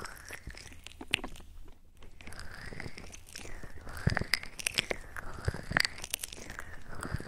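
Close-up ASMR trigger sounds right at the microphone: many soft irregular clicks and crackles over a hollow sound that sweeps slowly up and down.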